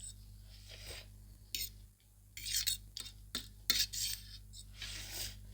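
Forks or spoons clinking and scraping against plates as the noodles are eaten, a run of short irregular clicks and scrapes.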